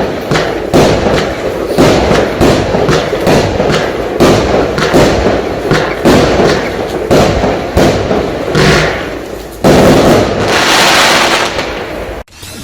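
Consumer firework cake, a 78-shot barrage, firing shot after shot: about two sharp bangs a second. Near the end comes a denser, louder volley lasting a couple of seconds, which then cuts off suddenly.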